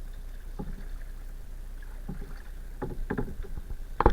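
A kayak being paddled on a river: a few short, irregular splashes and knocks of the paddle against the water and the hull, the loudest near the end.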